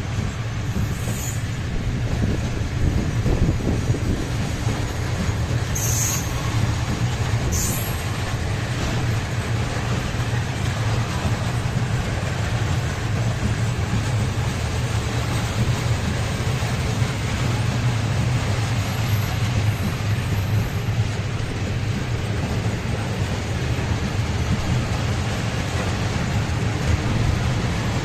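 A train passing close by: a steady rumble of wheels on the rails with a low hum underneath, and short high-pitched wheel squeals about one, six and eight seconds in.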